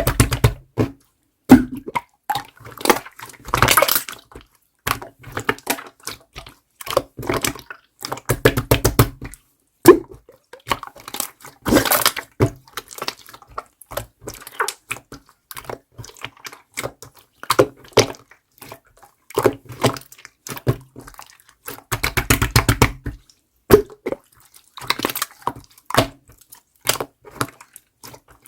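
Clear slime being squeezed and worked by hand: irregular wet clicks, pops and squishes, with louder bursts of crackling every few seconds.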